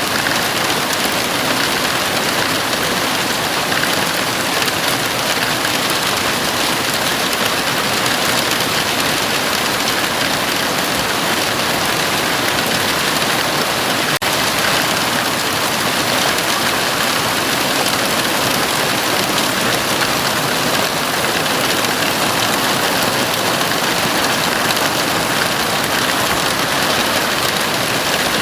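Heavy rain falling steadily on a house roof, a dense even hiss with no let-up. There is one brief dip about halfway through.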